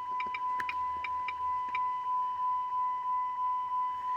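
A steady high electronic tone pulsing about twice a second, with a quick run of small clicks in the first two seconds from taps on a scan tool's touchscreen.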